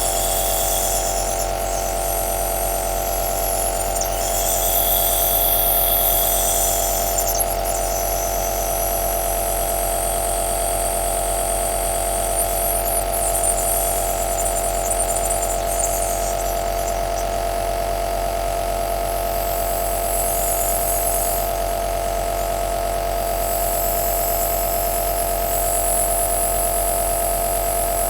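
Nebulizer running steadily: a constant motor hum with a steady mid-pitched tone and a wavering airy hiss above it.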